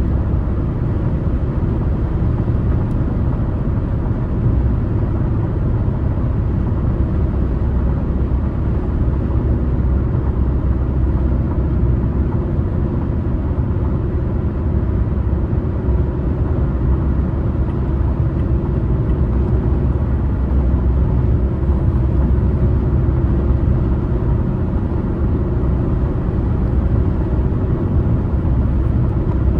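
Steady low road rumble of a car driving: tyre and engine noise holding even, with no distinct events.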